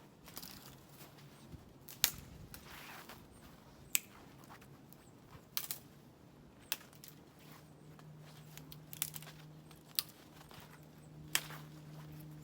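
Dry dead sticks being snapped by hand: a string of sharp, separate cracks at irregular intervals, about one every second or two.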